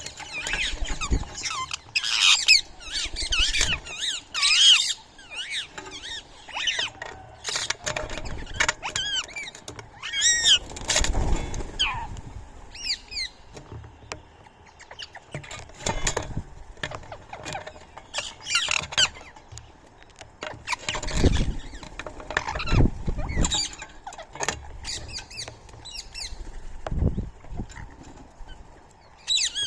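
Many short, high-pitched chirping and squeaking calls from small animals, coming in scattered bouts, with sharp knocks and taps in between.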